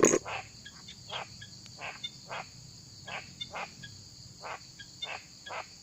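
Mountain frogs calling in short, separate croaks, irregularly about two a second, over a steady high drone of insects.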